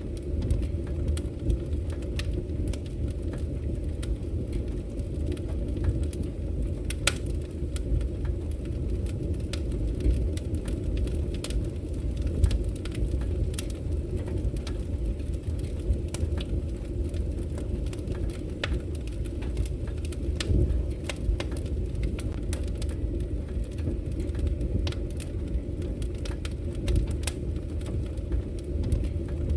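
Wood fire in a fireplace crackling: many scattered sharp pops and snaps over a steady low rumble.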